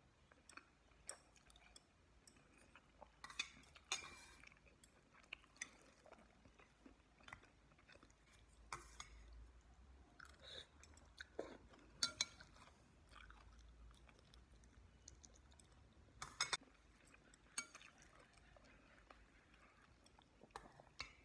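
Faint close-up chewing, with scattered sharp clinks of chopsticks against a stainless steel bowl.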